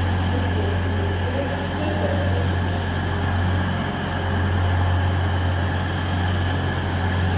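Diesel multiple unit's engines running steadily at the station, a constant low drone.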